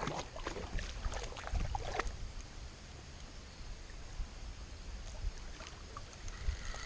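Steady outdoor water-and-wind noise: a creek running, with wind rumbling on the microphone and a few faint clicks about a second and a half in.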